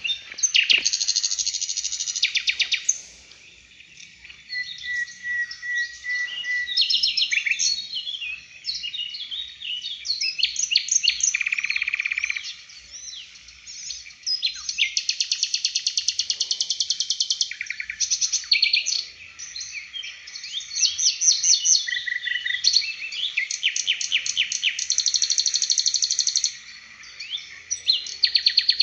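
Songbird singing in bursts of rapid, sharp repeated notes and fast trills, each burst lasting a second or three with short pauses between. This is a 'tembakan' birdsong recording of the kind played as a training song for caged songbirds such as shamas and shrikes.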